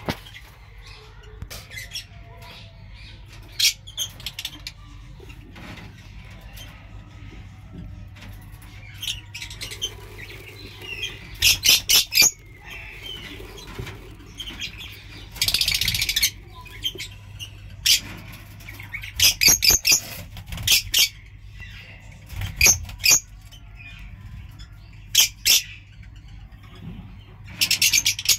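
Lovebirds chirping in a colony: scattered short, sharp, high calls, with a longer burst of rapid chirping about halfway through and another near the end.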